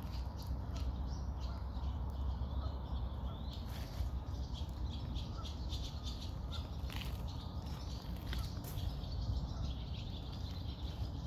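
Small birds chirping irregularly over a steady low rumble.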